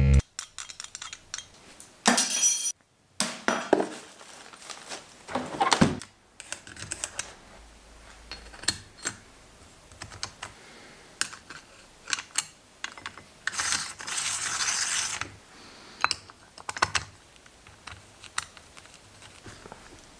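Small metal parts and hand tools clicking, clinking and knocking in irregular handling, with a loud knock at the start. Two short hissing stretches, one about two seconds in and a longer one about fourteen seconds in.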